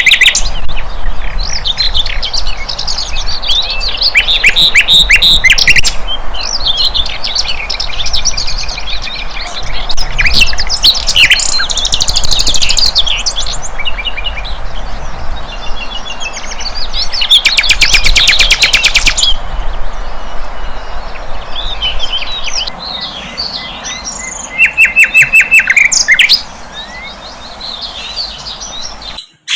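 A songbird, the flycatcher called sikatan londo, singing a varied run of chirps, trills and quick repeated notes over a steady hiss. The song cuts off suddenly near the end.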